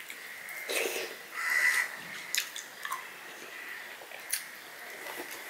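Chewing and wet mouth sounds of a man eating rice and curry by hand, with irregular soft clicks and squelches as his fingers mix rice on a steel plate.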